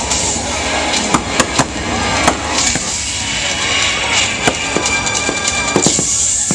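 Fireworks launching and bursting: a run of sharp bangs at uneven intervals, with a quick cluster of them near the end, over the show's music playing in the background.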